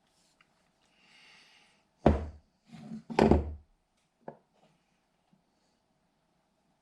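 Two heavy thumps about a second apart, with a weaker one between them and a light knock after, like things being set down or knocked while working.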